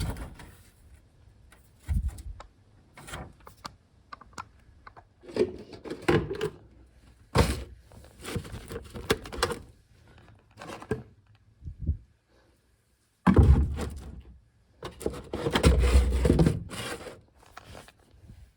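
Workshop handling noises: a string of knocks, thunks, clacks and scrapes as tools and parts are picked up and set down. The heaviest thuds come about two-thirds of the way in.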